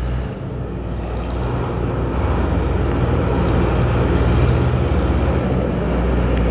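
A heavy engine running close by, with a deep steady drone that grows gradually louder.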